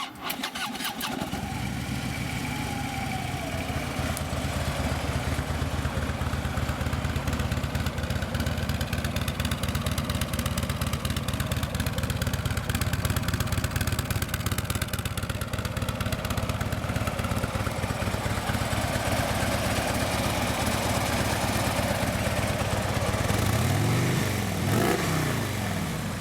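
Harley-Davidson Road King's 103-cubic-inch fuel-injected Twin Cam V-twin cranked by the starter and catching within about a second. It then idles steadily, with one short blip of the throttle near the end.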